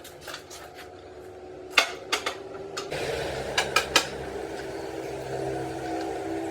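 Steel parts clinking and knocking against each other, then an electric machine motor starts about three seconds in and runs with a steady hum, a few more clinks over its start.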